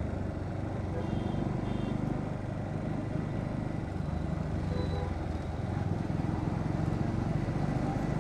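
Bajaj Pulsar NS125's single-cylinder engine running steadily while riding in traffic, with wind and road noise. Two faint short beeps about a second in.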